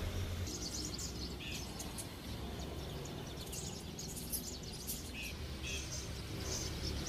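Birds chirping: many short, high calls scattered throughout, over a steady low rumble of outdoor background noise.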